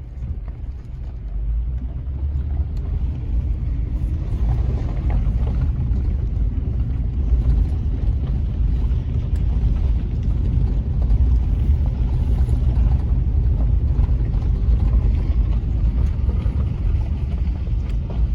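Car driving along slowly, a steady low rumble of engine and tyre noise that gets louder about two seconds in.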